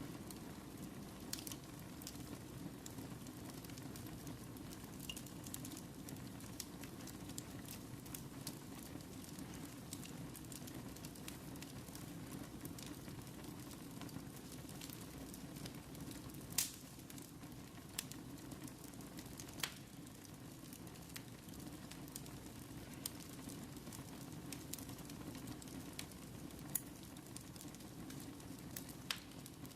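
Wood fire crackling in a fireplace: a steady low rush of burning with scattered sharp pops, the loudest one about halfway through.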